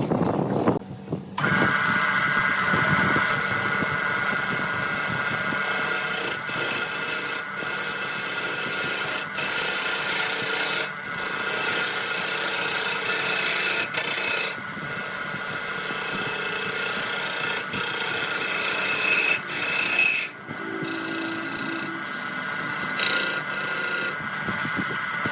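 Wood lathe running with a steady whine while a turning tool scrapes the spinning wood. The scraping breaks off briefly now and then.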